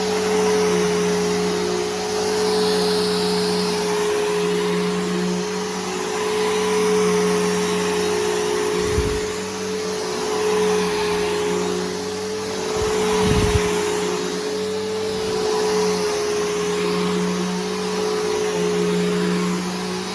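Bissell Powerforce Helix Turbo upright vacuum running steadily, fitted with a new brushroll and belt, its motor tone holding while the level swells and eases every couple of seconds. Two low bumps come about halfway through.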